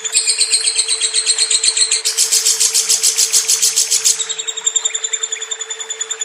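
Lovebird chattering in a long, unbroken run of rapid high chirps, about eight or nine a second. The pattern changes about two seconds in and again near four seconds. A faint steady hum lies underneath.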